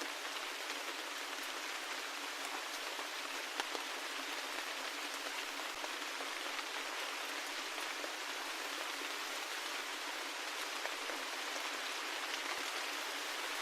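Steady rain falling, an even hiss with faint individual drops ticking here and there.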